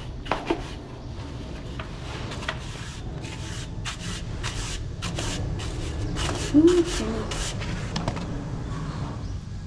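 Repeated scraping and rubbing of a hand tool across a hard surface, in short strokes. About six and a half seconds in there is a brief pitched sliding sound, the loudest moment.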